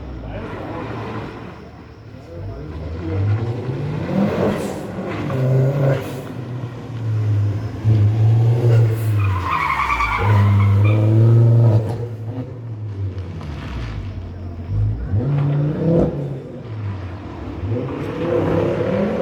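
Rally car engine revving hard, its pitch rising and falling through the gears, with tyres skidding and squealing as the car drifts sideways. The engine is loudest from about eight to twelve seconds in.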